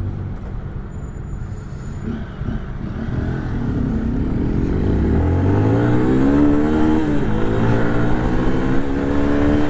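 Motorcycle engine running under way, its pitch rising steadily for a couple of seconds about halfway through as the bike accelerates, then holding steady.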